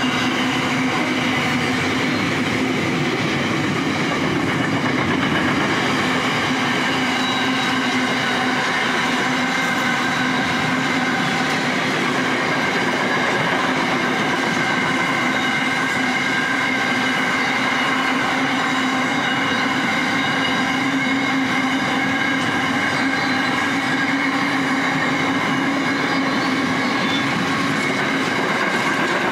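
Freight train wagons of a long container train, many of them empty flat wagons, rolling past: a steady wheel-on-rail noise with several held ringing tones over it.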